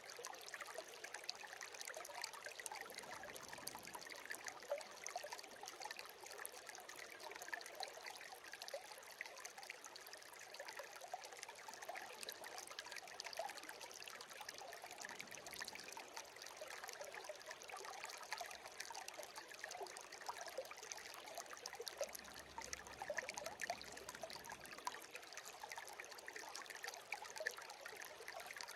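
Shallow stream burbling and trickling steadily: an even rushing hiss full of small splashes and bubbles, with little deep rumble.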